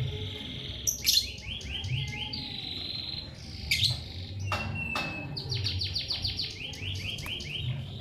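Lovebirds chirping: quick runs of short, high, downward-sweeping chirps alternate with longer buzzy held notes, and there are a few sharp clicks.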